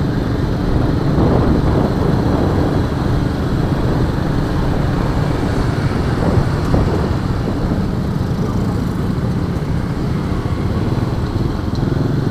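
1994 Honda Astrea Star motorcycle's small four-stroke single-cylinder engine running steadily while being ridden at an even speed.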